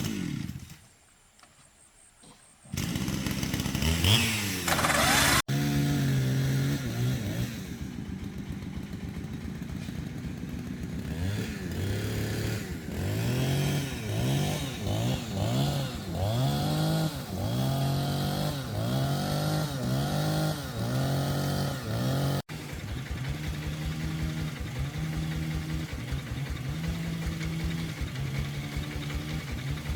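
A small engine running loud, revving up and dropping back about once a second for a stretch, then running more steadily, in several cut-together stretches.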